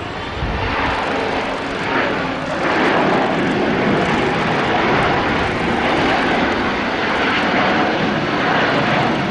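Jet airliner's engines heard from beside the runway: a broad rushing noise that grows louder over the first three seconds and then holds steady.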